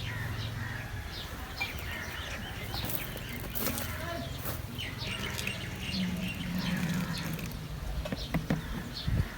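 Birds chirping, many short scattered chirps, over a steady low background hum.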